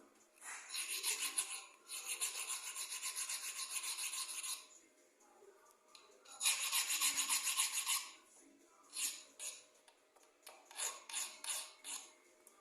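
Milling cutter of a 6P10 milling machine cutting metal, a fast rasping chatter as its teeth take a chip. There is one long cut, a shorter one, then several short bursts near the end.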